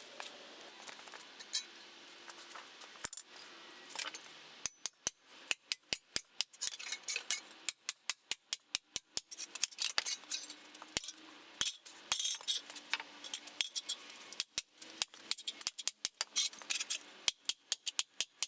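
Small metal scrap pieces clicking and clinking against each other in quick, irregular strikes, a few at first and then many in close succession from about five seconds in.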